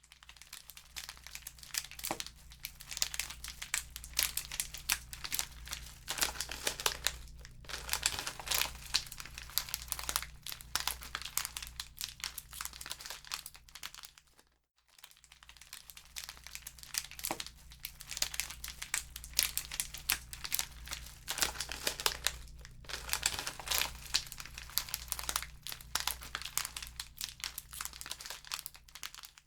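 Wood fire in a fireplace crackling: dense, irregular snaps and ticks over a faint steady low hum, cutting out for a moment about halfway through.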